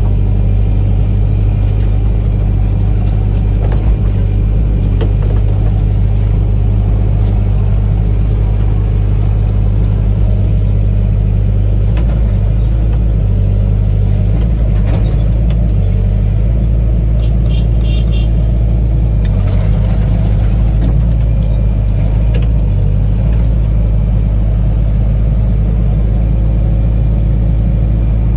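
Excavator's diesel engine running steadily and loudly at an even pitch, with a few faint knocks.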